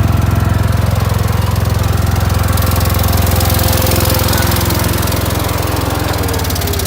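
Boxer 530X mini skid steer's engine running steadily with a low, even rumble, easing slightly near the end.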